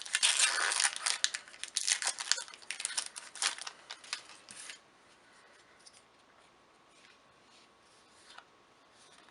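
A Magic: The Gathering booster pack's foil wrapper being torn open and crinkled, with dense crackling for about the first half. It then falls quiet apart from a few faint taps.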